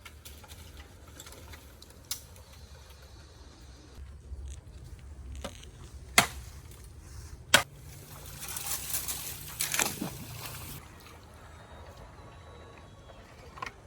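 Sharp knocks, two loud ones a little over a second apart, followed by a couple of seconds of splashing water, over a low rumble.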